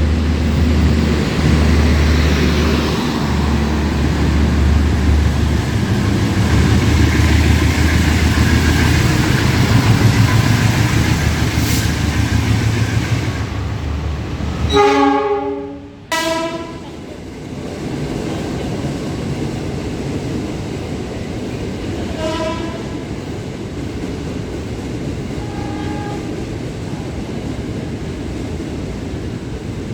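Passenger train passing close, with a heavy low rumble and rail clatter for about the first half. About halfway through, a loud train horn blasts for under two seconds as the rumble cuts away. Two fainter horn sounds follow later over a steady background of rail noise.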